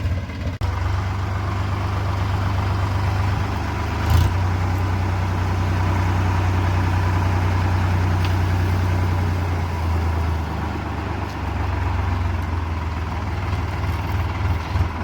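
Tractor engine running steadily with a deep, even hum, with a single knock about four seconds in.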